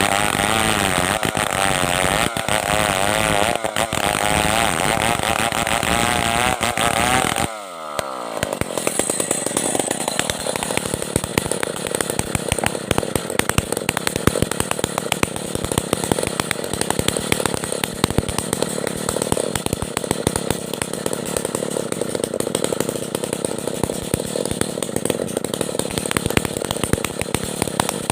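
Stihl 070 two-stroke chainsaw running at high revs under load while sawing a log into planks. About seven seconds in, the revs fall away sharply, then it runs on steadily at a lower pitch with a dense rapid crackle.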